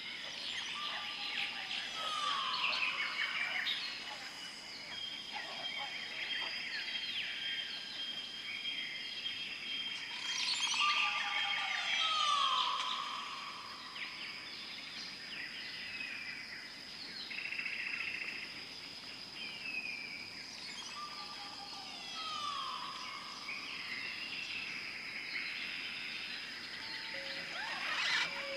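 Several birds chirping and singing over a steady high-pitched whine. A call that holds one note and then slides down recurs about every ten seconds.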